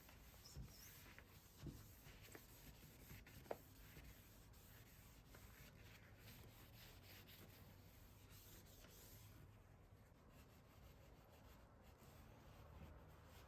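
Faint steel wool rubbing over the finish of a walnut chair, a scratchy scrubbing with a few light knocks in the first few seconds.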